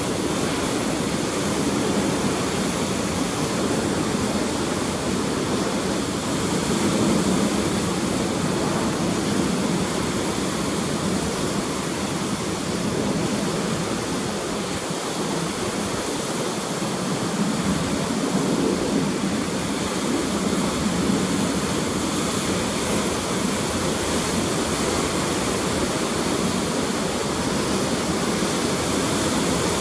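Ocean surf breaking continuously on the shore, a steady rush of water that swells and eases slowly. The sea is running the swell left by a typhoon.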